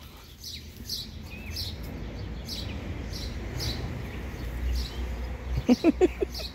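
Small songbirds chirping, short high downward notes repeated about once or twice a second. Near the end, a quick run of about five short, louder, low pitched calls.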